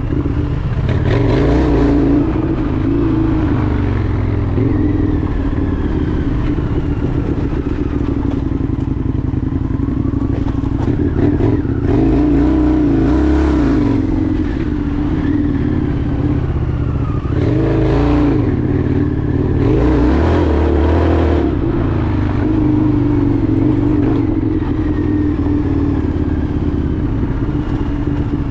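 Indian FTR 1200's V-twin engine running as the motorcycle is ridden. Its pitch rises and falls repeatedly with the throttle, and there are several louder, rougher stretches of wind and road noise.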